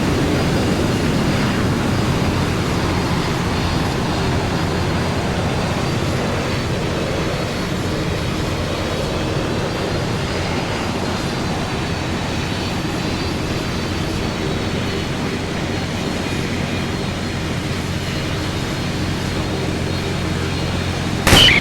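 Fixed-wing aircraft's turbine engines running steadily, with a faint high whine that drifts slightly in pitch. A brief sharp click comes near the end.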